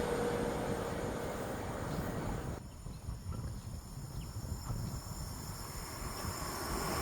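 Passing train fading away: its rumble and a steady whine die out in the first second or so, leaving a faint low rumble with a few faint ticks.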